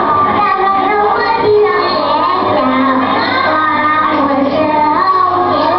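Children's voices singing, many voices overlapping at once, some holding steady notes.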